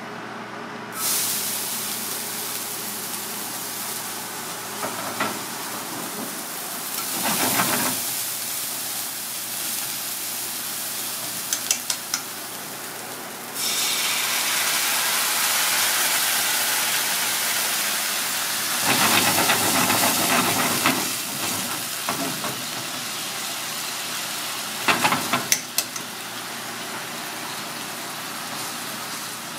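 Chopped green onion sizzling in hot oil in a small cast-iron pan, the hiss starting suddenly about a second in. About 13 seconds in it jumps louder as brown sauce is poured into the pan, and a few light clicks of chopsticks on the pan come near the end.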